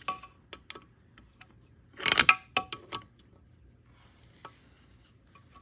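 Torque wrench and socket clicking and clinking on the engine's connecting rod bolts. There are a few sharp metal clicks, then a short rattling cluster about two seconds in, and a couple more clicks after it.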